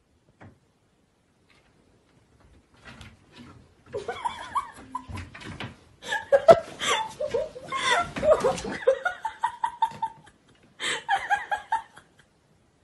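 Laughter, in several bursts after a few quiet seconds.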